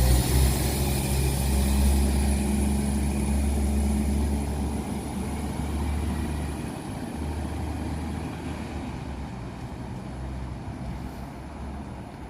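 Diesel multiple unit train's engines running with a steady low drone that fades gradually over the seconds.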